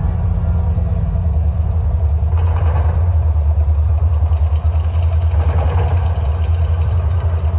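Loud, steady deep rumble of the Mirage volcano show's eruption effects, with a rougher, hissing layer joining it about two and a half seconds in.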